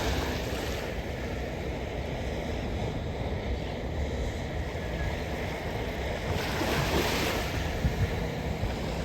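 Small waves breaking and washing up a sandy beach, with wind buffeting the microphone as a steady low rumble. One louder wave breaks and washes in about two-thirds of the way through.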